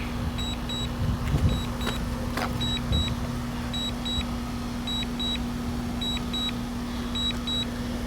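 Drone remote controller sounding short double warning beeps about once a second over a steady low hum, the alert for a low battery and return-to-home. A few light knocks come in between.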